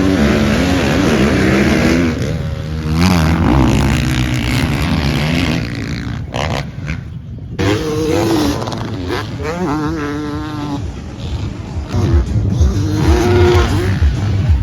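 Motocross dirt bike engines revving, the pitch climbing and falling again and again as the throttle is worked.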